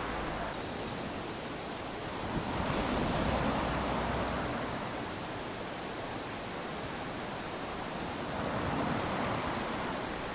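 Small waves lapping onto a sandy beach: a steady wash of surf that swells as a wave breaks, once a couple of seconds in and again near the end.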